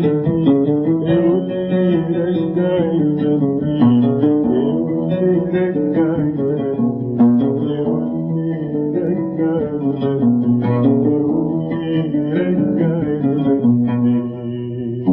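An oud playing an instrumental passage between sung verses of an Arabic song: a run of plucked melody notes.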